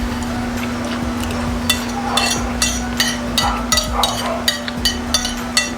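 A spoon clinking and scraping against a dish as food is scooped, a run of sharp clicks about three a second that starts a little under two seconds in, over a steady low hum.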